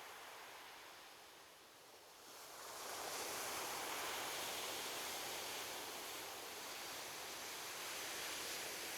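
Ocean waves washing onto a beach: a lull, then about two and a half seconds in a wave breaks and its surf hiss swells and holds steady.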